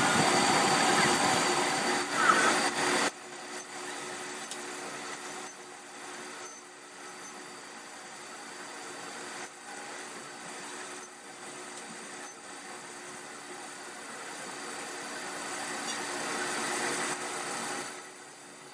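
Metalworking machinery running, with irregular louder scraping and knocking from the work. The sound changes abruptly about three seconds in.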